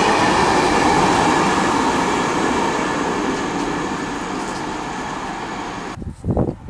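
A train running past on the rails, its rumble and wheel noise fading slowly as it moves away. About six seconds in it cuts off abruptly and gusts of wind on the microphone take over.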